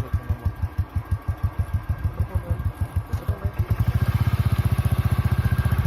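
Royal Enfield Classic's single-cylinder engine idling with its steady, even thump, the beat quickening a little about two-thirds of the way in.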